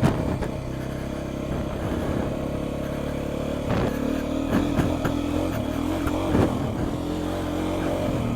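Beta 390 RR four-stroke single-cylinder dirt bike engine running at low revs while being ridden on a trail. Its pitch rises and falls with small throttle changes, and there are a few brief knocks along the way.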